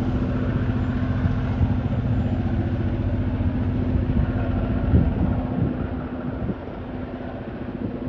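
TasRail DQ class diesel locomotive running under power, a steady engine note with a rapid even beat. It drops in level about six and a half seconds in.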